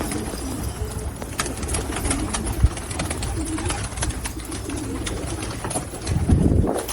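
Pigeons cooing repeatedly, low soft calls, with scattered light clicks, a single sharp knock about two and a half seconds in, and a louder low sound near the end.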